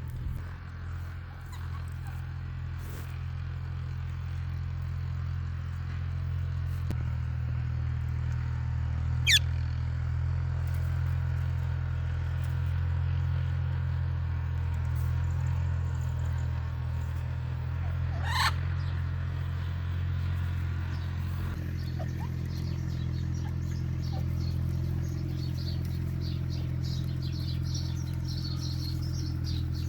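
A steady low hum, with two brief, sharp bird calls: one about nine seconds in and one about eighteen seconds in. Faint, rapid, high chirping comes in during the last few seconds.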